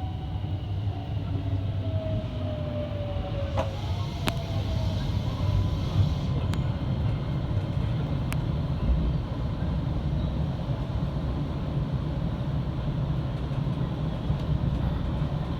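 Electric commuter train running, heard from inside the carriage: a steady low rumble, with a motor whine that falls in pitch over the first few seconds and a few sharp clicks.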